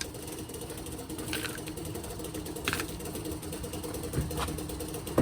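A machine hums steadily under a few scattered metallic clanks and knocks as a truck wheel and tire are worked off the hub, with one louder knock at the very end.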